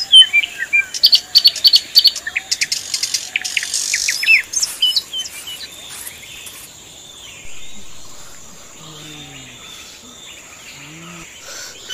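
Birds chirping and calling, many quick high notes, dense for the first few seconds and then thinning out. A few short, low, arched sounds come near the end.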